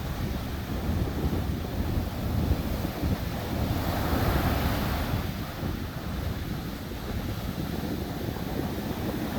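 Sea surf breaking on a beach, with one wave's wash swelling to a louder hiss about four seconds in and fading a couple of seconds later. Wind buffets the microphone throughout.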